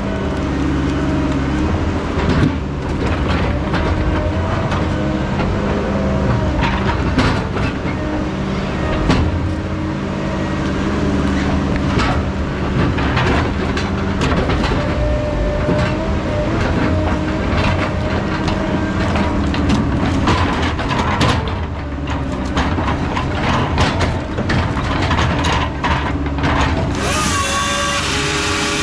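Heavy logging machine running, its diesel engine steady under a wavering whine, with frequent clanks and knocks of machinery at work. A hiss comes in near the end.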